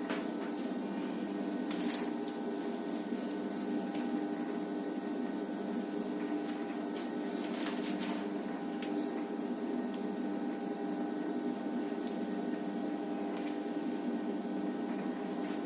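FR-900 continuous band sealer running: its conveyor motor and cooling fan make a steady hum with several held tones, and a few light clicks sound over it.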